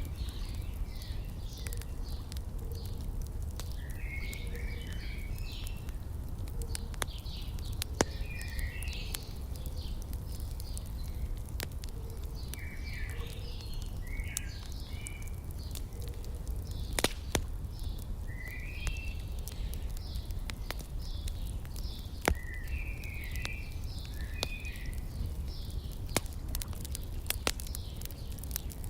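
Birds chirping in short repeated phrases, with a fire crackling and giving a few sharp pops. A low steady rumble runs underneath.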